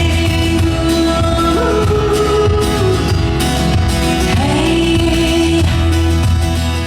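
Live acoustic band music, an instrumental passage with a melody line of long held notes that slide from one pitch to the next.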